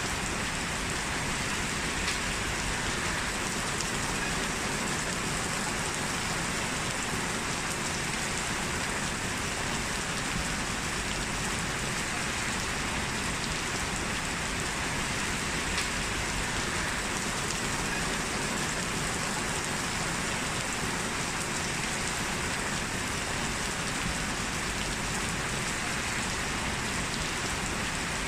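Steady rain falling, an even hiss with scattered drips on surfaces that holds at the same level throughout.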